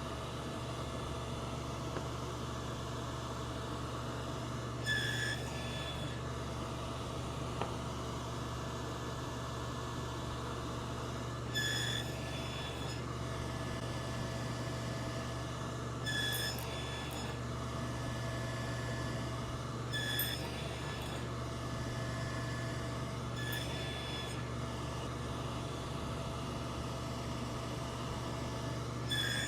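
Table saw with a finger joint blade running steadily. About every four to six seconds, six times in all, a short, sharper tone sounds as the leg passes over the blade and another strip of waste is nibbled away.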